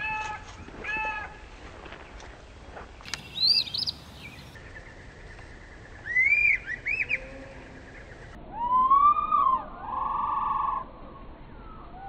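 Bird calls played back slowed down and lowered in pitch. First come two short harsh calls from a jay, then several groups of arching whistled notes. Near the end, a small flycatcher gives a long rising-and-falling note followed by a buzzy note.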